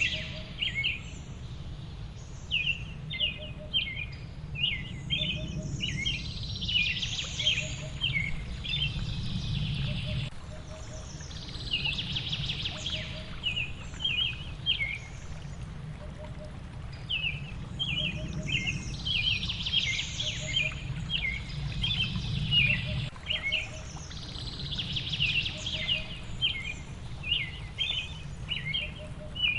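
Small songbirds chirping and twittering in quick repeated notes, over a low steady rushing background. A faint low pip repeats about every second and a half.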